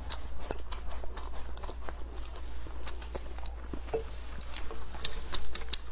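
A woman eating mouthfuls of rice and mei cai braised pork belly: chewing, with irregular wet mouth clicks and smacks, picked up close on a clip-on microphone.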